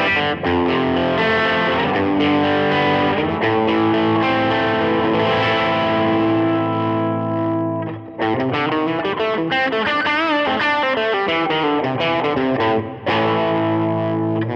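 Les Paul electric guitar played through a Nobels ODR-1-style overdrive into a Vox AC30 amp simulation with reverb: distorted chords, then bent, wavering lead notes in the second half, ending on a chord that rings out.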